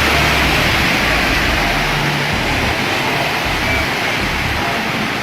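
Loud, steady rushing of turbulent water, with a low rumble underneath.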